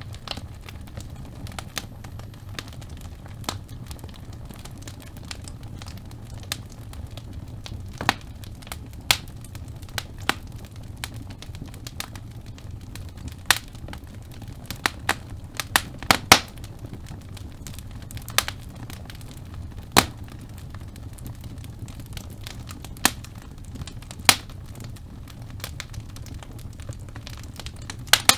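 Wood fire burning in a fireplace: a steady low rumble with irregular sharp crackles and pops of burning logs, clustered most thickly midway through.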